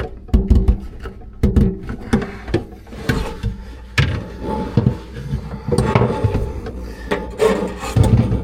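Irregular knocks, clicks and rubbing from handling faucet parts and tools in a cramped sink cabinet.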